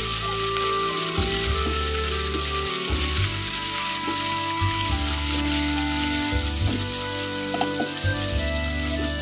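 Okra and sliced onions sizzling steadily as they fry in oil in an earthenware pot, stirred with a spatula. Steady background music plays underneath.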